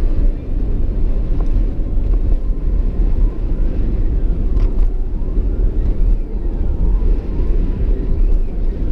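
Steady low road rumble and engine noise inside the cab of a moving truck.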